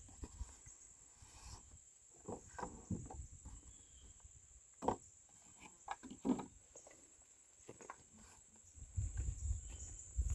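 Faint, irregular clicks and scrapes of a chainsaw and its chain being handled and turned during hand sharpening, over a steady faint high-pitched whine.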